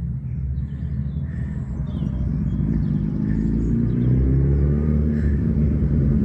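Motorcycle engine approaching and growing steadily louder, its note rising and falling as it draws near. Birds chirp faintly in the background.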